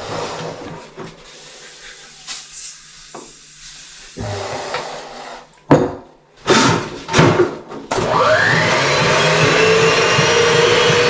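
Electric motor switching on about eight seconds in, its whine rising as it spins up, then running steadily and loudly. Before that, a few short loud knocks and handling noises.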